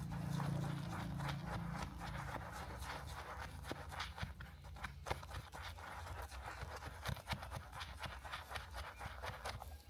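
Hands cleaning a small plastic-and-metal model car: a busy run of small clicks, taps and scrapes, with a low hum in the first second.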